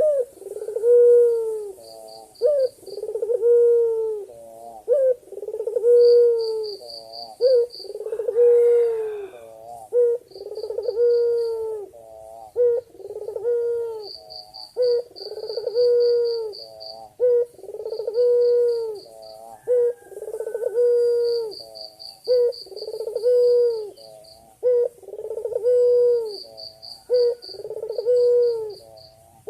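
Male white ringneck dove (puter putih) cooing over and over, a low call about every two seconds: the male's call to a female. A faint, fast, high pulsing trill comes and goes behind it.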